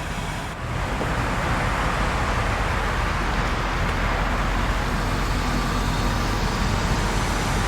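Steady hum of passing road traffic, getting a little louder about half a second in.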